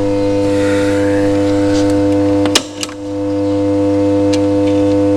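A steady, loud electrical hum with a sharp click about two and a half seconds in. The hum cuts out briefly, with a second small click, and then resumes.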